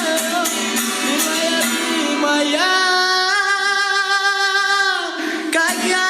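Music: a song with a voice singing a melody over instrumental backing, holding one long wavering note from about two and a half seconds in to about five seconds in.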